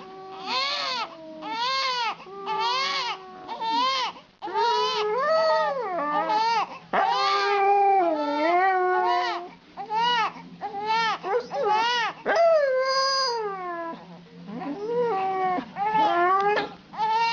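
A dog vocalizing in a long run of whining, howl-like calls, each rising and falling in pitch, about one a second with short gaps between, and a brief lull about two-thirds of the way through.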